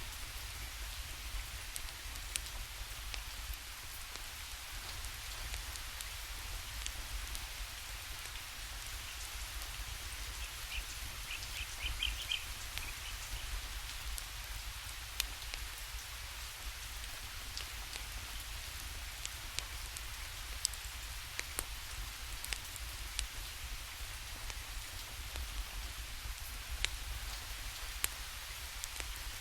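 Steady rainfall hiss with scattered sharp crackles and pops from a burning wood fire. A brief high chirping rises above the rain about eleven seconds in.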